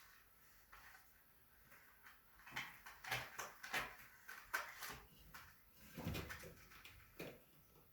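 Uromastyx lizard biting and crunching its food: a run of faint, irregular crisp clicks and crunches, sparse at first and coming thick and fast from a couple of seconds in, ending with a last crunch near the end.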